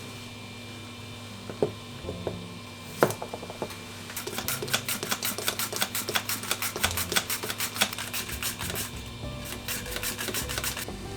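Kitchen food preparation by hand: a few separate knocks, then a run of quick, evenly spaced strokes, about five a second, lasting roughly five seconds. A faint steady hum lies underneath.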